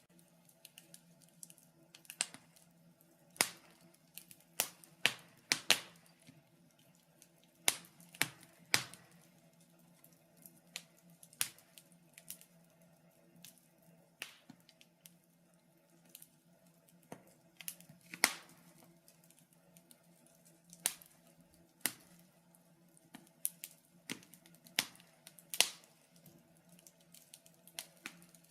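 Wood fire crackling in a fireplace: irregular sharp pops and snaps, a few loud ones among many small ticks, over a faint steady low hum.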